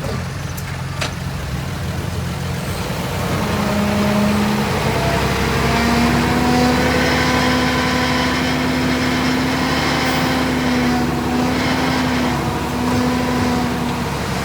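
Heavy diesel machine engine running, its pitch rising about three seconds in and again a couple of seconds later, then held steady at higher revs until just before the end.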